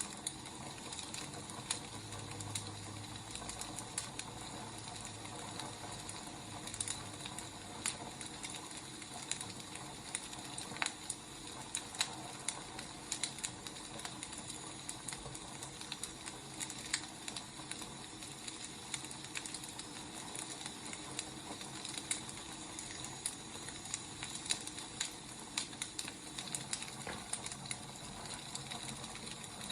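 Wood fire burning, a steady hiss with irregular sharp crackles and pops.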